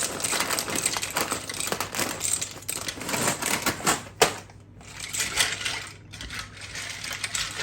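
Dry pasta being poured, the pieces clattering and rattling against each other and the pan, with one sharp knock about four seconds in.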